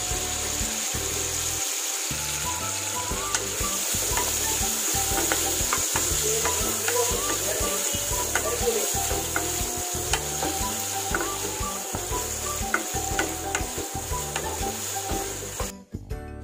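Chicken pieces sizzling steadily as they fry in hot oil in a nonstick kadai, with a wooden spatula scraping and turning them. Near the end the sizzle cuts off suddenly and jingling music comes in.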